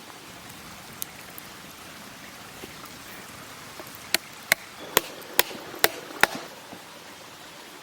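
Chopping on wood: six quick, sharp strikes about half a second apart, a little past halfway through, over a steady outdoor hiss.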